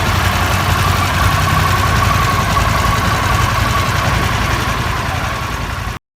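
Harley-Davidson Pan America 1250's Revolution Max V-twin engine idling steadily through its exhaust. The sound dips slightly near the end, then cuts off suddenly.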